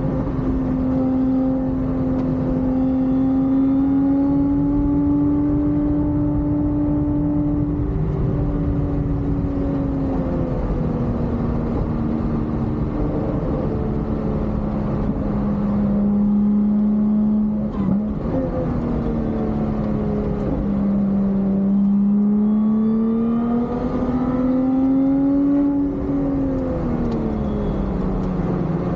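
Lotus Exige S3's supercharged V6 engine under hard load on track, heard from inside the cabin over road and wind noise. Its note climbs slowly, falls after about eight seconds and holds lower, then climbs again and drops back near the end.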